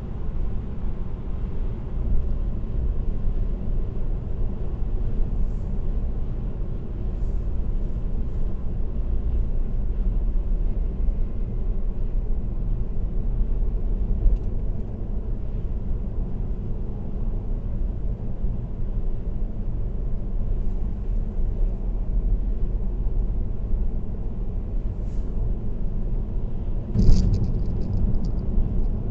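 Steady road noise of a car cruising on an expressway: a low tyre-and-engine rumble with little change. A short sharp knock sounds about two seconds before the end.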